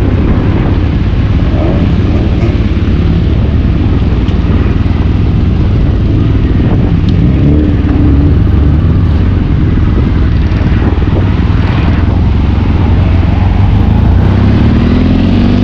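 Motorcycle engine running steadily on the road, then rising in pitch near the end as it accelerates.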